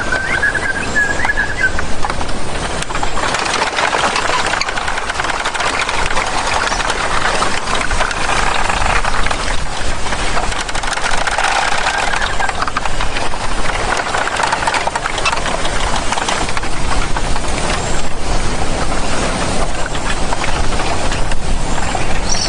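Mountain bamboo-forest nature ambience: a steady, dense rushing noise, with a wavering whistled tone in the first two seconds.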